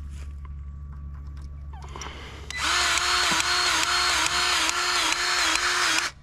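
Battery-powered grease gun running, pumping grease into a stump grinder's grease fitting. It starts about two and a half seconds in and its motor pitch pulses about twice a second with each pump stroke. It cuts off just before the end.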